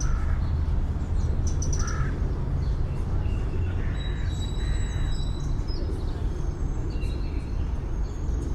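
Steady low rumble of city traffic with birds calling over it: short harsh calls just after the start and again about two seconds in, then thin high whistled notes.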